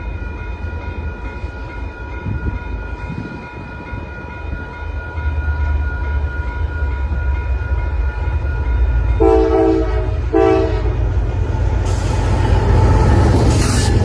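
Train rumbling past and growing louder, with two short horn blasts about nine and ten and a half seconds in, then loud hissing near the end.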